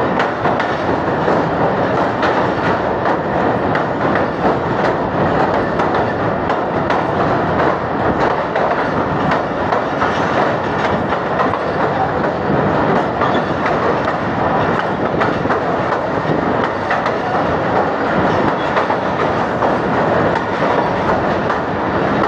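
Pakistan Railways passenger coach running at speed over an open-deck bridge with timber sleepers: a loud, steady rumble of wheels on rail with a dense rattling clatter.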